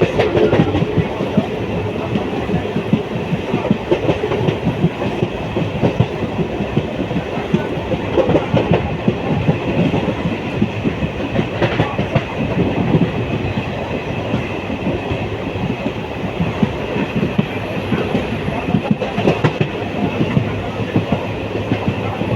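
Moving passenger train: steady running noise with the wheels clattering over the rails and the carriage rattling.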